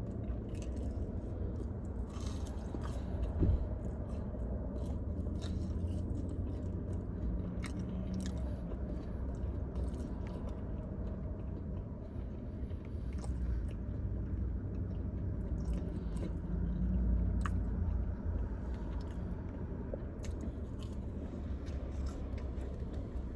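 Close-up mukbang eating: a person chewing and biting into fried chicken and fries, with scattered small crunches and mouth clicks over a low steady rumble.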